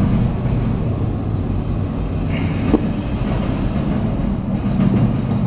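Slow-moving freight train passing: boxcars rumbling over the rails, with the diesel engine of a CSX road-switcher locomotive running as it comes by in the second half. A single sharp knock a little under three seconds in.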